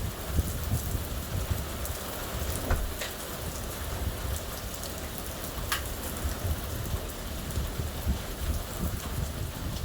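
Steady heavy rain falling during a thunderstorm, with a few sharp drops ticking close to the microphone and an uneven low rumble underneath.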